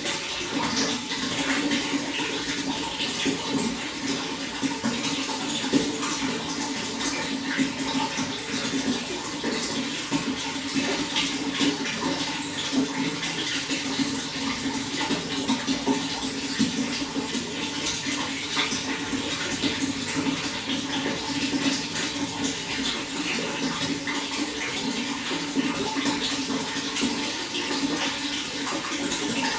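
Running water flowing steadily, with many small splashes and trickles in it.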